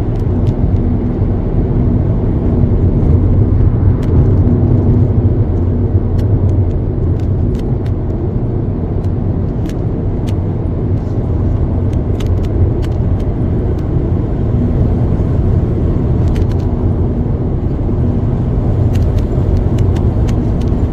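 Steady low rumble of a car driving along a road, with a faint steady hum and a few light clicks.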